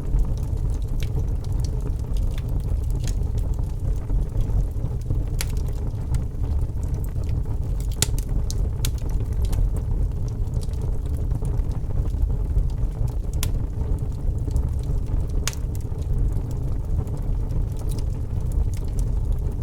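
Wood fire burning in a fireplace: a steady low rumble of flames with scattered sharp crackles and pops from the burning wood, a handful of them standing out clearly.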